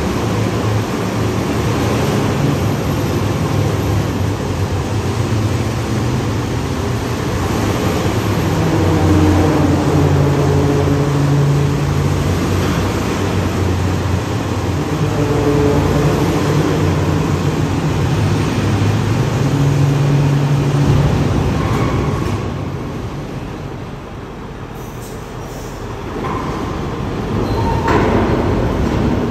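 Garbage truck's diesel engine running under load while manoeuvring, its pitch rising and falling. It eases off for a few seconds about three-quarters of the way through, then picks up again.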